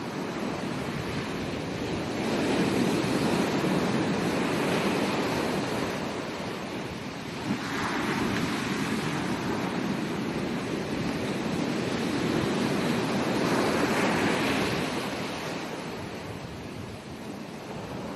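Ocean surf on a beach: waves breaking and washing in, swelling and ebbing, with a wave breaking about eight seconds in and another about fourteen seconds in.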